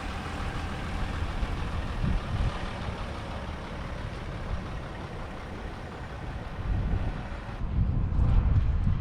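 An engine running steadily with a rumbling low end and a noisy hiss above it. Near the end the rumble grows louder and the high hiss drops away.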